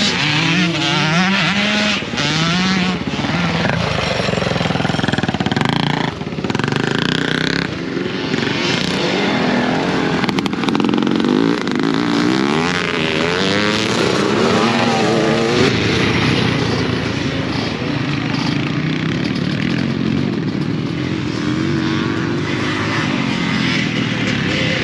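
Motocross bikes racing on the track, their engines revving up and easing off over and over as they accelerate and shift, with several engines overlapping.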